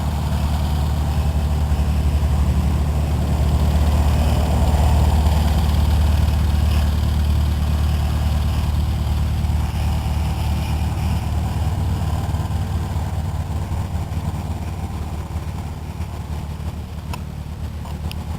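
Cessna 152's four-cylinder Lycoming piston engine and propeller droning steadily in flight, easing off slightly toward the end.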